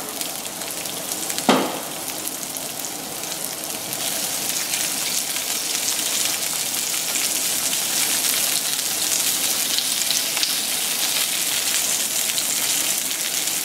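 Chopped onion sizzling in hot oil in a nonstick frying pan at the start of sautéing, stirred with a silicone spatula. There is a single sharp knock about one and a half seconds in, and the sizzle grows a little louder from about four seconds.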